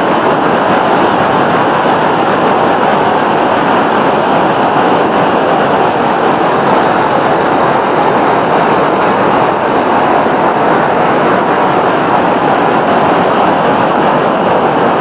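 Machkanda waterfall on the Jhaljhali river: a loud, steady rush of water falling over rock into a gorge.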